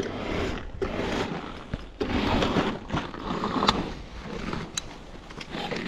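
Tyres of a small electric bike crunching and scraping over ice and crusted snow while riding. The sound comes in uneven surges with a few sharp clicks.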